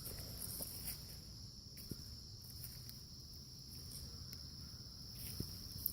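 Crickets trilling steadily in a high, continuous buzz, joined by a second, higher pulsing insect song from about a second in until near the end.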